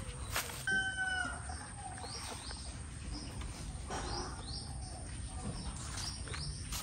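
Small birds chirping in short, quick, falling high notes, with one short pitched call about a second in.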